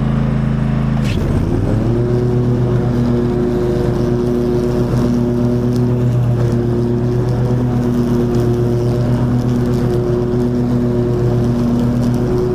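Toro TimeCutter zero-turn mower engine running loudly and steadily; about a second in its pitch dips sharply and recovers, after which it settles into a steady run with an added higher whine.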